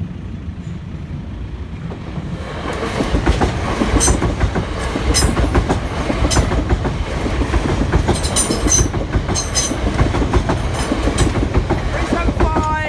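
Class 375 Electrostar electric multiple unit passing close by, its rumble swelling about two seconds in and staying loud, with the wheels clacking sharply over rail joints.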